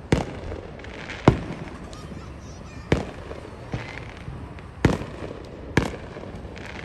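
Fireworks shells bursting overhead: six booms at uneven gaps, the loudest about a second in, each trailing off in a short rumble.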